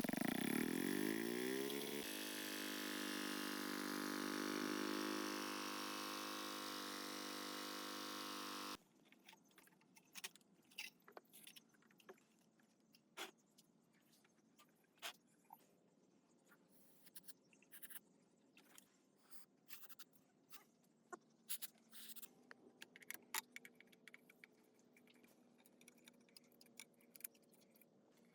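A motor-driven workshop tool runs down in pitch over the first two seconds, then runs steadily and cuts off abruptly after about nine seconds. Scattered small clicks and taps of parts being handled follow.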